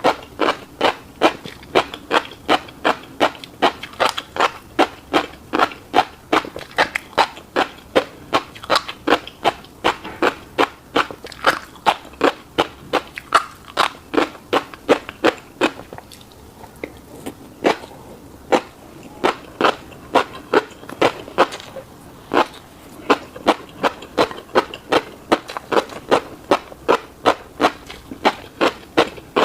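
Close-up chewing of a fish roe and rice bowl: steady wet mouth sounds, about two to three chews a second. There is a pause of about two seconds just past the middle before the chewing resumes.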